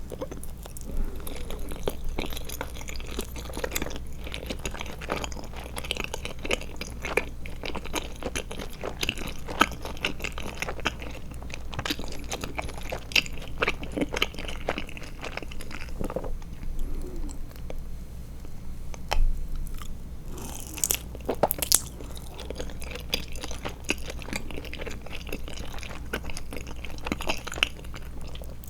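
Close-miked chewing of Trolli Glotzer gummy eyeball candy: many small wet clicks and smacks, with a couple of louder, crisper sounds about two-thirds of the way through. A steady low hum runs underneath.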